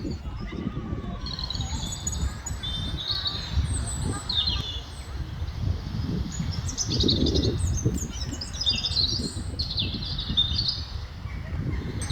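A group of seagulls giving many short, high-pitched, overlapping calls, several falling in pitch, most densely in the second half. A low rumble runs underneath.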